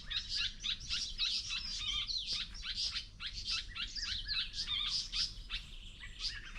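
Several small birds chirping and twittering at once, a busy run of quick, overlapping high calls.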